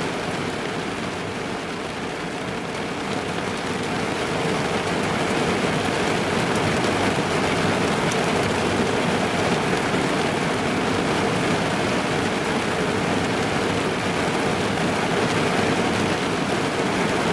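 Rain falling on a car's roof and windows, heard from inside the car: a dense, steady patter that gets a little louder about four seconds in.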